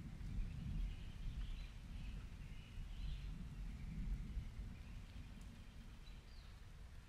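A steady low rumble of background noise, with a few faint, short chirps of birds now and then.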